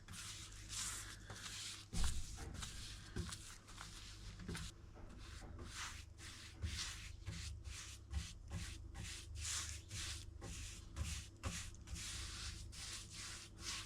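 Repeated hand rubbing strokes on a surface, about two a second, over a low steady hum.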